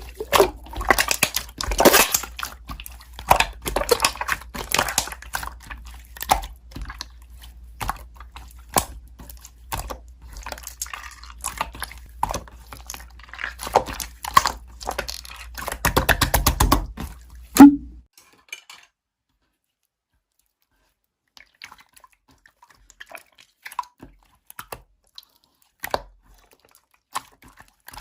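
Slime (액괴) being squeezed and poked by hand, making dense wet clicking and crackling pops over a low hum. About eighteen seconds in the hum stops and the sound drops to scattered faint clicks.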